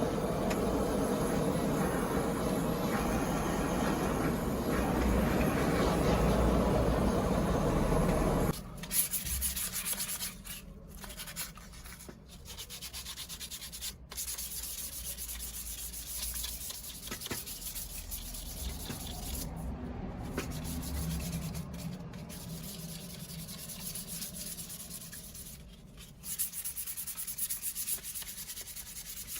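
Abrasive sanding by hand, rubbing back and forth. It is denser and louder for the first eight seconds or so, then turns lighter with short pauses.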